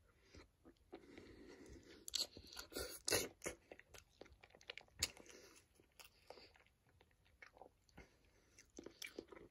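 A person chewing a mouthful of hard-boiled egg dipped in salsa: faint, irregular wet mouth clicks, busiest in the first three seconds and sparser after.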